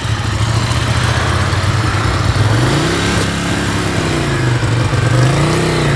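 Motorcycle engine running at low speed, its revs rising about two and a half seconds in and easing back down near the end, as the rider works the throttle in a slow-speed control drill.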